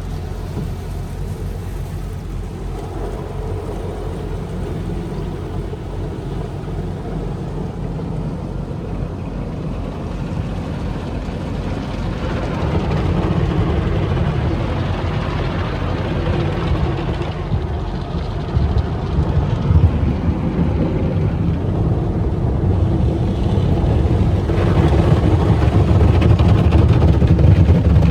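Automatic car wash machinery running: a steady, low, rumbling noise that grows louder about twelve seconds in and again near the end.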